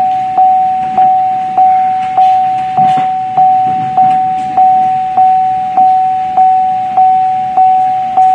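A 2013 Chevy Malibu's cabin warning chime dinging over and over, a single-pitched ding struck about every 0.6 seconds, each one fading before the next.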